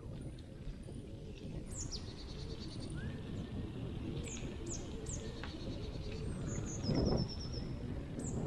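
Small woodland songbirds calling: short, high, downslurred notes and quick rattling trills, heard over a steady low rumble, with a louder low thump about seven seconds in.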